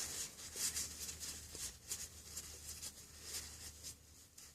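Faint, irregular rubbing and rustling of a towel wiping old grease off a small metal ring from a bicycle axle.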